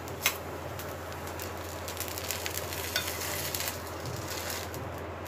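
Semolina-coated bread frying in ghee on a hot pan, with a steady sizzle and a few light clicks as the slice is handled and turned.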